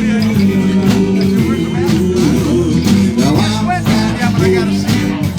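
Live band playing an instrumental stretch of a blues number, with drums, bass and electric guitar.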